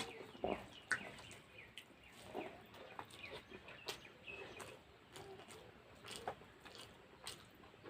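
Mouth sounds of eating rice and curry: wet chewing and lip smacks in irregular short clicks, with faint chirps in the background.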